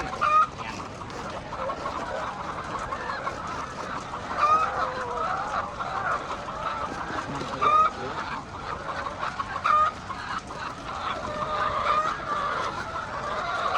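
A flock of laying hens clucking steadily, many calls overlapping, with a few louder short squawks about half a second in and again around four and a half, eight and ten seconds.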